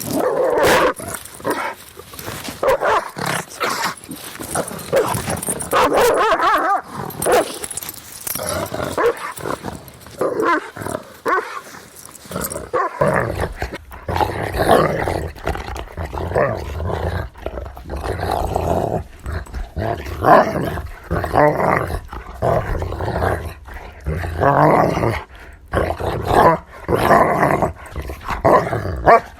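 Dogs barking in quick repeated bouts, mixed with growling. About thirteen seconds in, the recording changes and a low rumble sits under the barks.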